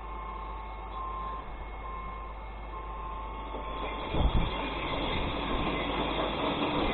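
Glass recycling truck's engine and hydraulics running with a thin, steady whine that comes and goes. About four seconds in, a thump and a louder, noisier rush.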